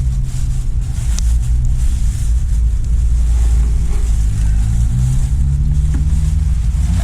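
A steady low engine rumble with a slightly wavering pitch.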